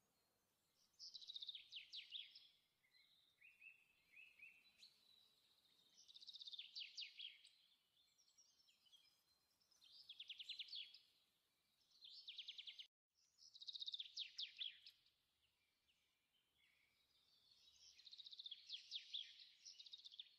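Faint songbird singing: short, fast trilled phrases of about a second each, repeated every few seconds.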